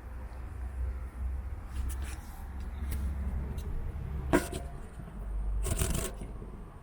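Hand stroking a cat's fur close to the microphone: rustles and brief knocks, one sharp knock a little past the middle and a longer rustle near the end, over a low steady rumble.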